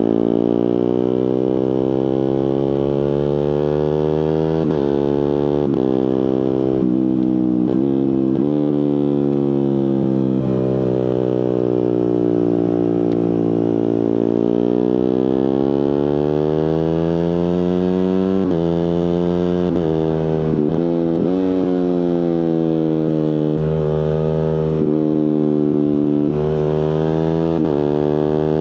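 Suzuki GSX-R150 single-cylinder engine through an aftermarket Prospeed exhaust, revving up and easing off under a rider's throttle. Its note is broken by a run of quick gear changes about five to nine seconds in and again about eighteen to twenty-two seconds in, with sudden steps in pitch from the quickshifter and autoblipper.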